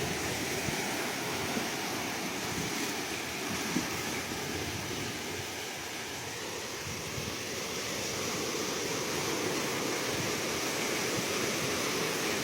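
Ocean surf: waves washing in a steady rush of noise, easing slightly about halfway through and building again near the end.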